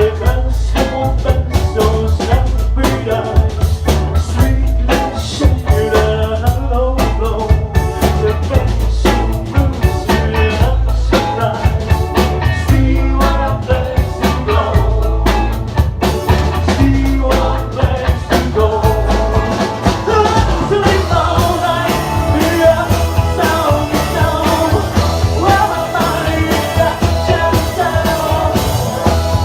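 Live rock band playing loudly, with busy drum kit and heavy bass; from about twenty seconds in, sustained higher melodic notes come to the fore while the drumming thins.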